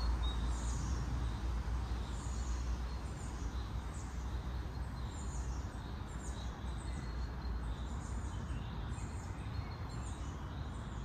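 Small birds chirping, short falling calls repeating about once or twice a second, over a steady low rumble.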